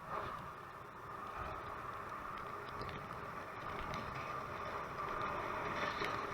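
Steady street noise of traffic and tyres hissing on a wet, snowy road, slowly growing louder.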